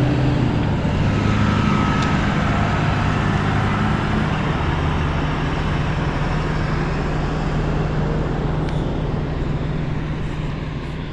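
A large vehicle's engine idling steadily with a low, even hum, easing slightly quieter near the end.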